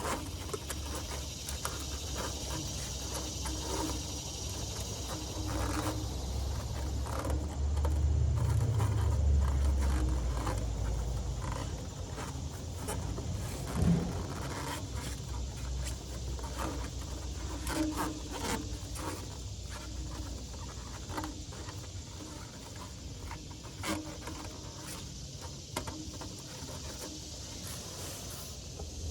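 Scattered metal clicks, knocks and scrapes of hand-work fitting an exhaust repair clamp onto the pipe, over a steady high insect chirring. A low rumble swells about six seconds in and fades a few seconds later.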